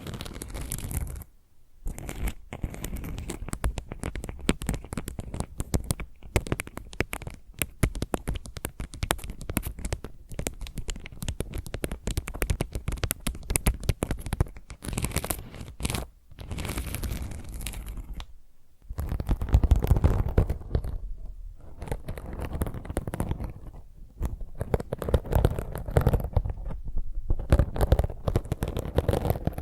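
Fingernails scratching rapidly on the rough unglazed back of a ceramic tile, close to the microphone. After a brief pause near the end, this gives way to scratching and rubbing on a scouring pad, which sounds fuller and louder.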